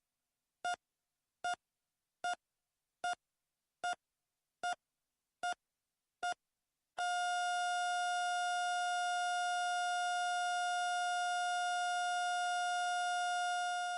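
Electronic beeps of one pitch, eight of them about 0.8 s apart, then from halfway through a single unbroken tone at the same pitch: a heart-monitor sound effect going from a steady pulse to a flatline.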